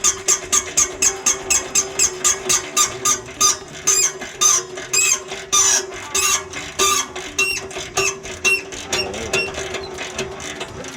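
A rusted exhaust bolt being worked loose with a hand wrench: a regular squeaking click with each stroke, about four a second, that slows and turns uneven after about four seconds, over a steady hum.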